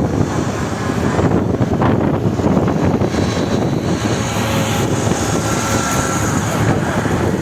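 Steady rumbling running noise of a moving train, with a faint thin tone about five seconds in.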